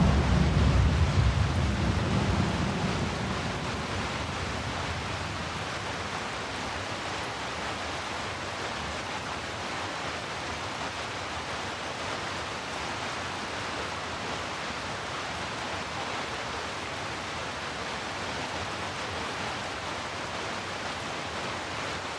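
Steady heavy rain layered with deep brown noise, an even rushing hiss. A low thunder rumble fades out over the first three or four seconds.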